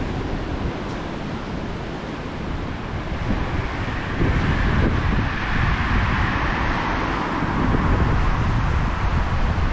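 Strong wind buffeting the microphone in a low rumble, over the hiss of surf on a beach; the surf swells louder about four seconds in, as a wave washes up.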